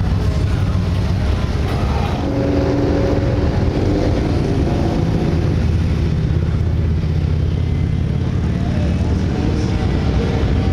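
Motorcycle engines running on a busy street, a steady low rumble, with a higher pitched sound a few seconds in.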